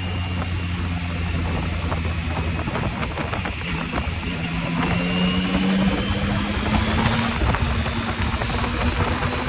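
Yamaha MT-09's three-cylinder engine running while riding, its note shifting and rising a little about halfway through, over a steady rush of wind noise.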